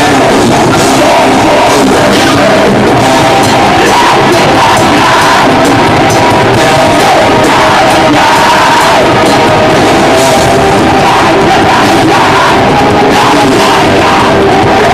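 Metal band playing loud and fast live, with distorted guitars and pounding drums, and crowd noise in the mix. The recording is loud and dense all the way through, near its ceiling.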